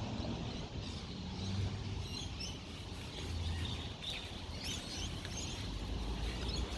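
Outdoor background with a few faint bird chirps over a steady low rumble.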